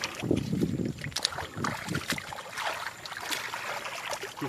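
Irregular splashing and sloshing of water, with scattered short crackles.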